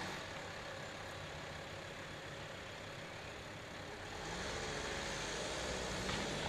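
A motor vehicle's engine running, growing louder and rising slightly in pitch about four seconds in.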